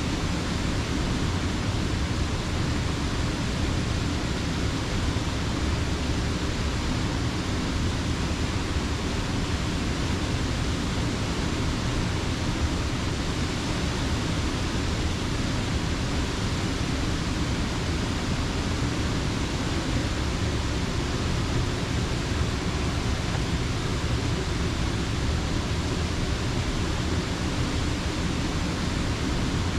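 Water of Slippery Rock Creek pouring over the grist mill's dam: a steady, unbroken rush of falling water, fullest in the low end.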